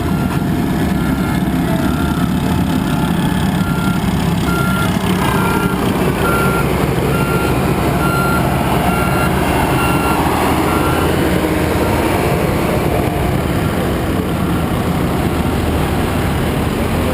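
Heavy engine running loudly and steadily, with a vehicle's backup alarm beeping about every three quarters of a second until it stops about eleven seconds in.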